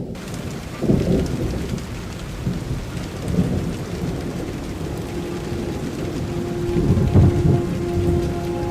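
Heavy rain falling with rolling thunder, the low rumble swelling several times.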